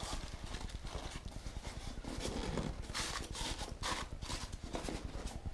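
Packaging being handled while unpacking a boxed model: irregular rustling with many light knocks and clatters.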